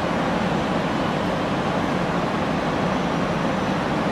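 Steady, even noise of an Abukuma Railway 8100 series electric train standing at the platform.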